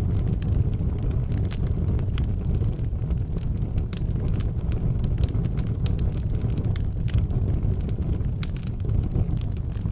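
Fire burning in an outdoor fireplace: irregular sharp crackles and pops over a steady low rumble.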